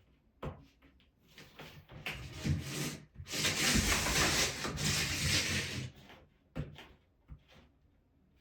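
Heating cable being pushed and rubbed into the plastic studs of a Ditra-Heat uncoupling membrane: scattered taps and short scrapes, then one long scrape lasting about three seconds from about three seconds in, followed by a few knocks.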